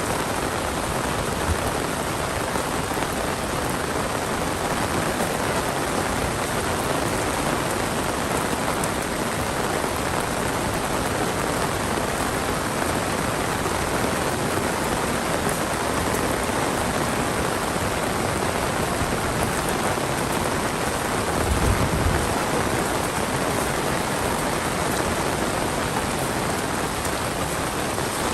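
Heavy monsoon rain falling steadily as a dense, even hiss. About three-quarters of the way through there is a brief low thump.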